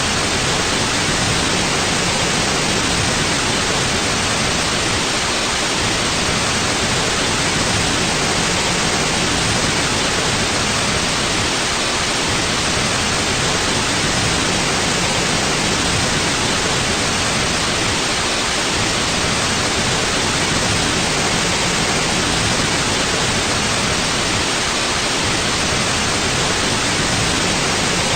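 Steady white noise: an even, constant hiss with no change in level or pitch.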